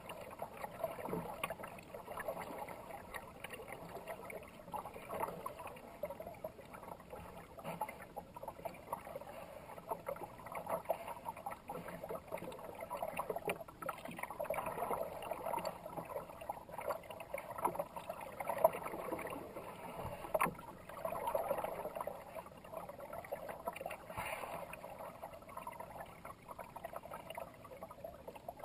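Kayak paddle strokes splashing and water swishing past the hull, swelling and easing every second or two, with a few sharp knocks or splashes.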